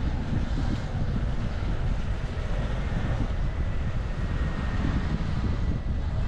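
Steady low rumble of wind buffeting a helmet-mounted action camera's microphone, mixed with city street traffic, while cycling.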